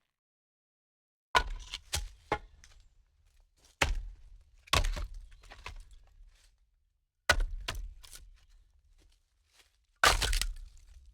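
Sharp cracks and thuds at irregular intervals, each followed by a short low rumble, with dead silence between them. The loudest strikes come about a second and a half in, near five seconds, at seven seconds and at ten seconds.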